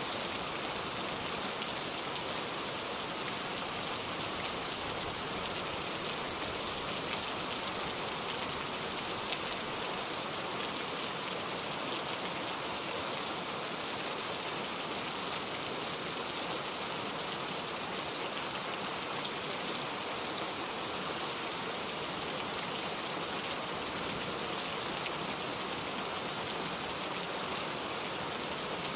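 Steady rain falling, a dense even hiss of many drops with no letup.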